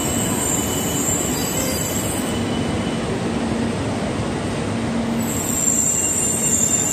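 E2 series Shinkansen train rolling slowly into the platform as it arrives, with a steady rumble of running noise. A thin high-pitched squeal fades out by about halfway and comes back near the end.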